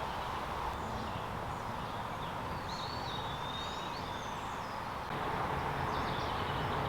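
Outdoor ambience: a steady background rumble and hiss, with a few short bird chirps, mostly in the middle.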